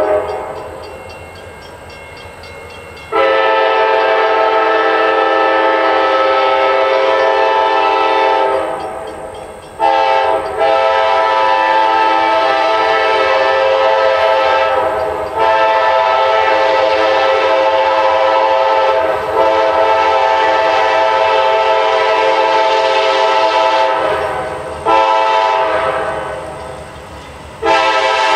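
Freight diesel locomotive air horn blowing a series of long blasts, each several seconds long and separated by short breaks, the longest running about ten seconds. Each blast sounds several notes together.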